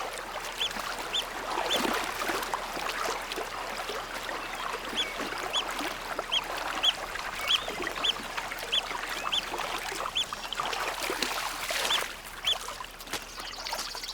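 River otter pups giving short high squeaks, often about two a second in runs, over rushing, splashing stream water.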